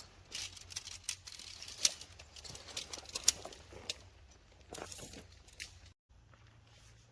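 Irregular rustling, crinkling handling noises and footsteps, with several sharp clicks, as a tent is being set up.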